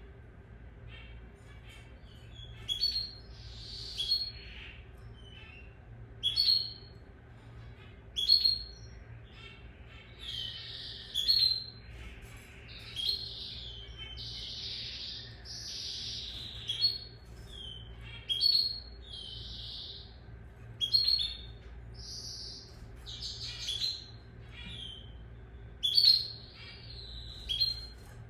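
Lizard canary singing: short, high chirping phrases repeat every second or two, with softer, hissier notes in between, mostly through the middle. A faint steady low hum lies underneath.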